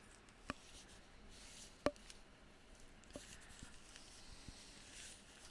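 Quiet handling noise: a few sharp clicks, the loudest about two seconds in, with faint rustling in between.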